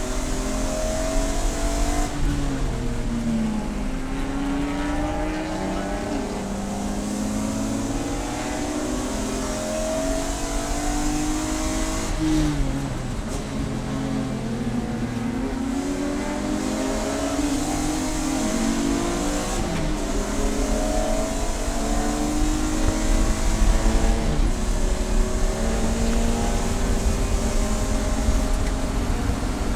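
Race car engine running hard on track, its pitch climbing steadily and then dropping suddenly several times at gear changes, over a steady hiss of noise.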